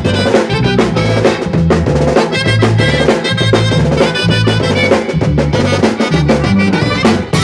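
Latin band playing an instrumental passage: drums and a bass line keep a steady dance beat under a bright lead melody.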